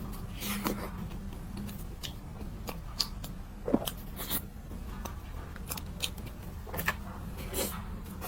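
Close-miked eating of soft strawberry mousse cake: scattered small clicks and mouth sounds of biting and chewing, the sharpest just under four seconds in, over a steady low hum.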